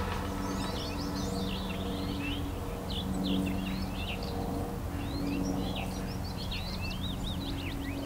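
Small birds chirping and twittering in quick, repeated short calls, over a faint steady low drone.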